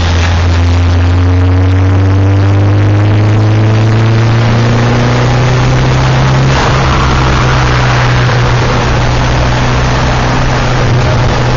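Turbocharged third-generation Mitsubishi Eclipse with a GT35 turbo accelerating hard in third gear at 10 psi of boost, heard inside the cabin. The engine note climbs steadily for about six and a half seconds. Then a sudden rush of hissing noise joins it and the pitch stops rising and holds steady.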